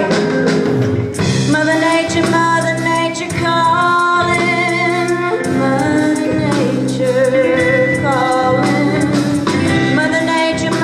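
Music: a song with long held sung notes over instrumental accompaniment.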